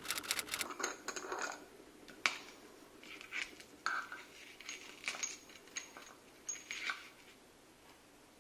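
Eating utensils clinking and tapping against dishes during a meal: a string of irregular sharp clicks, some with a brief high metallic ring.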